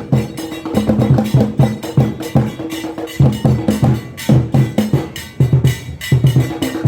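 Adowa drum music: an Akan percussion ensemble plays a dense, steady rhythm of pitched drum strokes with sharp, clicking strikes over them.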